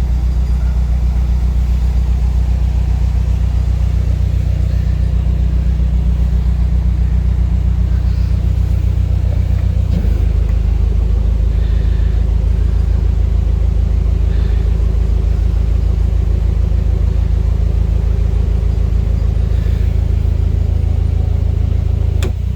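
Narrowboat diesel engine running steadily under way, a loud low rumble; its note changes slightly about halfway through.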